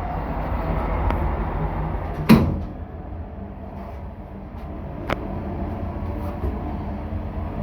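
Schindler hydraulic elevator doors shutting with one sharp knock about two seconds in, then a lighter click about five seconds in, over a steady low rumble.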